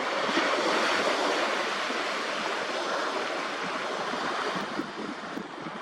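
Small waves of an incoming tide washing onto the shore: a steady rush of surf that swells over the first second or two and then holds.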